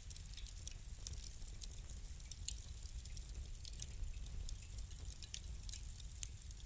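Wood fire crackling in a fireplace: an irregular scatter of small sharp pops over a low steady rumble.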